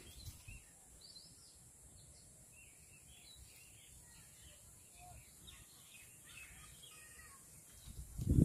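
Quiet outdoor background with scattered faint bird chirps, and a short louder burst of noise near the end.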